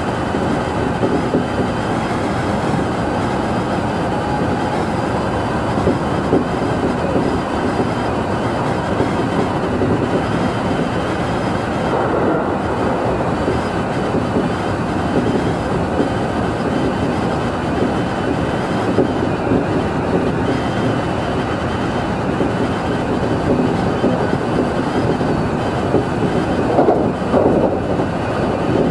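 Tobu Utsunomiya Line local electric train running at speed, heard from inside the car behind the cab window: a steady rumble of wheels on rail with a faint high hum, swelling a little near the end.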